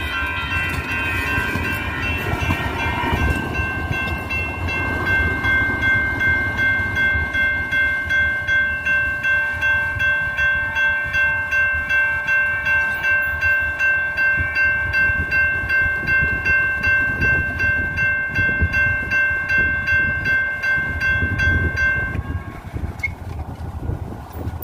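Railroad grade-crossing warning bell ringing rapidly, about three strokes a second, over the low rumble of a light rail train. The bell stops about 22 seconds in.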